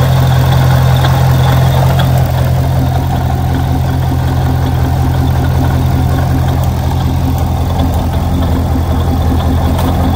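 C6 Corvette's V8 idling steadily, heard up close at the open engine bay by the front pulleys.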